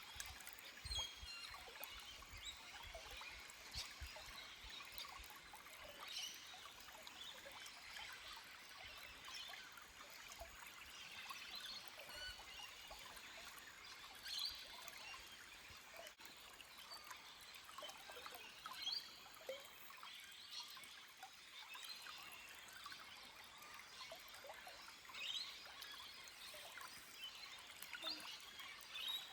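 Small forest stream trickling and splashing over rocks, quiet and steady, with faint bird calls. A few low rumbles in the first few seconds.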